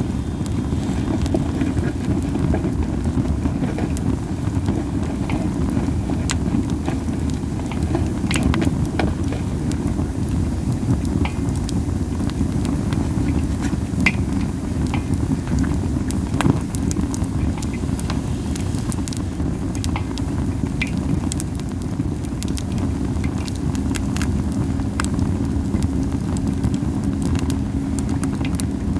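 Wood fire of Japanese spindle tree (masaki) branches burning, with scattered sharp crackles and pops at irregular intervals over a steady low rumble.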